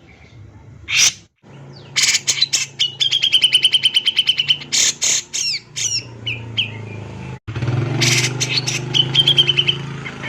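Male grey-cheeked bulbul (cucak jenggot) singing loudly. A run of rapid, sharp notes runs straight into a steady high trill, twice, with a short gap between.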